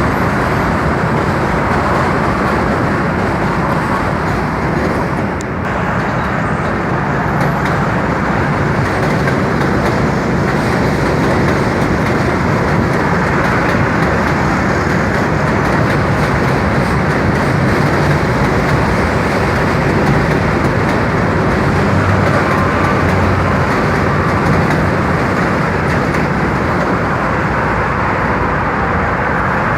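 New York City subway train running over bridge track: a steady, loud rumble of wheels on rail.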